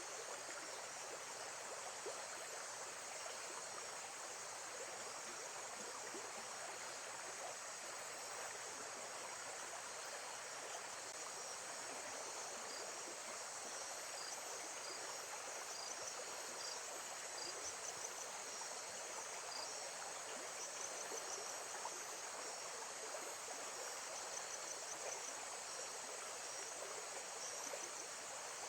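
Lake-side nature soundscape: a steady rush of running water, with insects chirping faintly and repeatedly over it.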